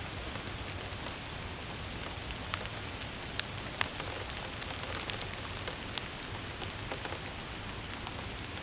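Steady rain falling, with scattered individual drops ticking sharply, a few louder ticks near the middle.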